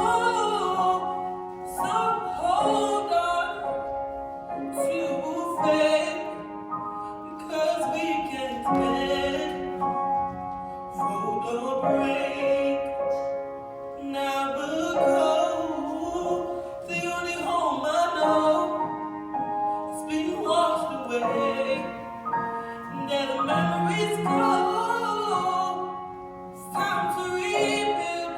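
Recorded music: a female voice singing long, wavering held notes in phrases over a sustained accompaniment.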